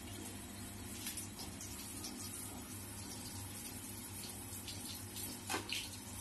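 Steady fall of water, like rain, splashing onto low-voltage landscape light fixtures being tested for waterproofing. A brief sharp click comes about five and a half seconds in.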